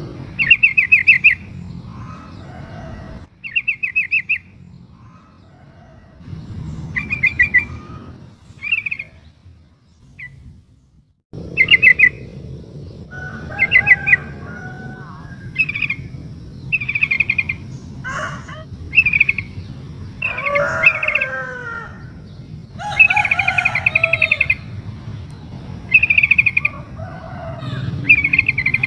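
Female sooty-headed bulbul (trucuk) calling in short, rapid chattering bursts that repeat every second or two, the calls of a female in breeding condition calling a male. Other bird calls with falling notes come in between about halfway through. There is a brief drop to near silence a third of the way in.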